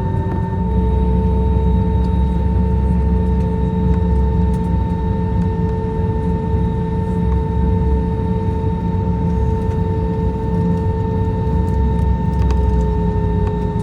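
Airbus A321neo's geared turbofan engines running: a steady low rumble under a steady whine, with one whining tone stepping up in pitch about half a second in and dropping back near the end as the engine speed changes.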